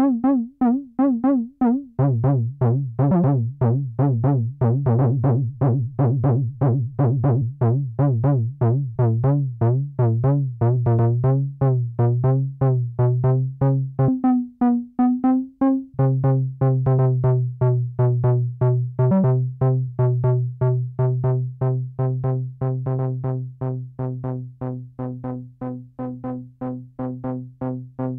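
Malekko Manther analog monosynth playing a fast repeating sequence, about four notes a second, its tone shifting as the parameters are tweaked. A steady low bass note comes in about two seconds in, drops out for a couple of seconds midway, then returns, and the level eases off near the end.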